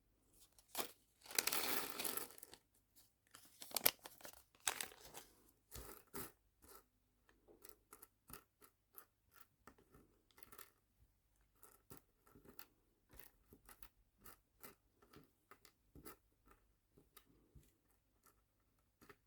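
Packaging crinkled and torn for about two seconds, then again more briefly. After that come many light, separate clicks and taps of small nail charms being handled and sorted into containers.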